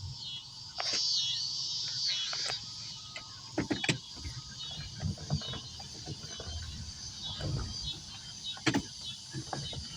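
Insects chirring in a steady, repeating high buzz, with a low rumble underneath. Scattered sharp clicks and knocks come about a second in, twice around four seconds in and again near the end.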